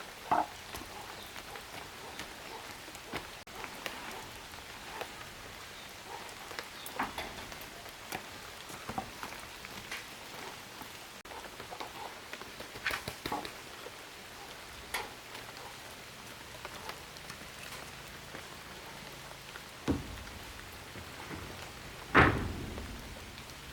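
Scattered light ticks and knocks over a steady hiss, with a few louder knocks and one loudest thump near the end.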